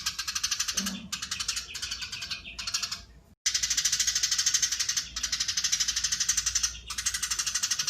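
Eurasian tree sparrow giving long, dense chattering runs of rapid high notes, broken by short pauses, with a brief silent gap a little over three seconds in.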